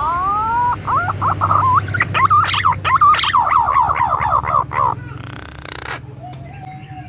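Green pigeon (punai) calling: a series of whistled notes that opens with two rising whistles, then breaks into a quick run of wavering, rising-and-falling notes, with a fainter, lower wavering note near the end.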